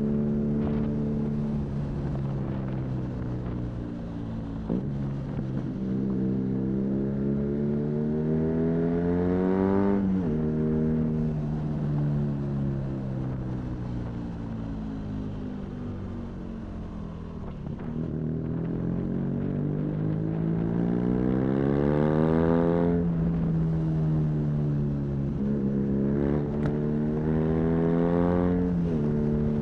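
BMW R nineT's boxer twin with an aftermarket Arrow high-mounted exhaust, pulling hard and rising in pitch, with sudden drops at the upshifts about ten seconds in, near twenty-three seconds and just before the end. In between it winds down slowly as the bike rolls off the throttle, and wind and road noise run underneath.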